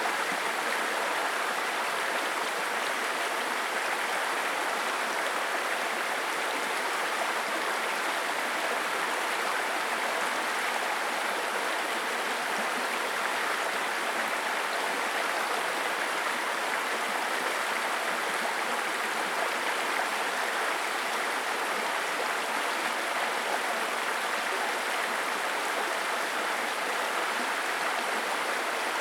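Babbling brook: shallow stream water running and gurgling over stones, steady and unbroken.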